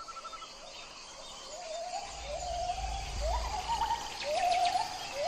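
Repeated animal calls, each a short note that rises and then levels off, overlapping and growing louder, with a brief low rumble in the middle.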